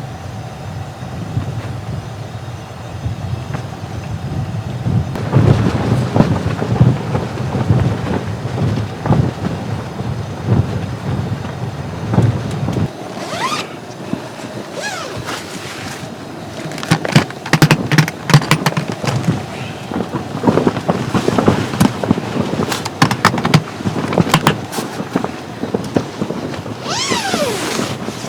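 Storm wind gusting hard against a tent, with the fabric flapping and rattling in irregular slaps. The gusts grow stronger about five seconds in and again past the middle.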